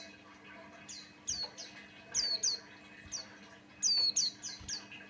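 A white-eye chirping: short, high notes that slide downward, given in quick clusters of two to five, with brief pauses between the clusters.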